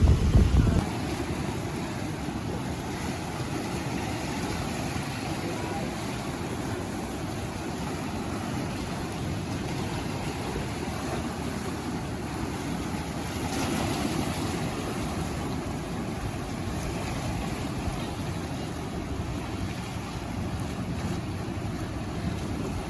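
Steady outdoor wind and water noise, with wind buffeting the microphone as a low rumble in the first second and a brief swell about halfway through.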